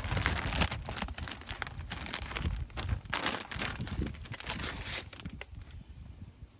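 Plastic packaging on a new cabin air filter crinkling and tearing as it is unwrapped and handled, in quick irregular crackles that die away near the end.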